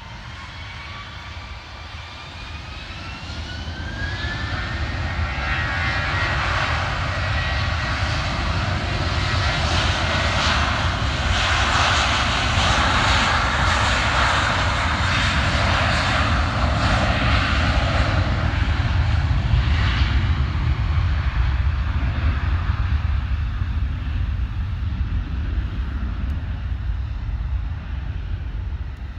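Jet airliner engines: a rising whine over the first few seconds, then a rush of engine noise that builds to its loudest around the middle and slowly fades as the plane goes past.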